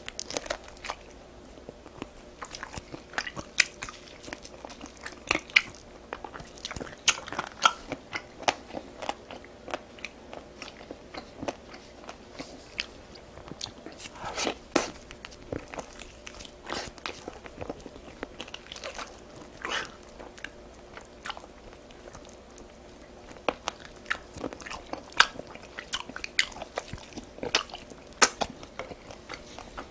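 Close-miked eating sounds: a person chewing and biting spicy Korean food with irregular wet mouth clicks and crunches, often several in a second.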